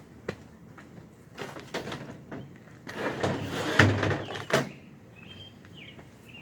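Footsteps and knocks of gear being handled, then a door sliding with a scrape and shutting with a heavy thud about four seconds in.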